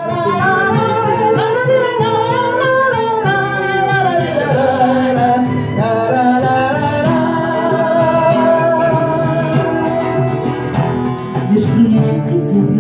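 Live song intro: plucked acoustic guitar accompaniment under a sliding, wavering melody line, played at a steady loud level before the vocal verse begins.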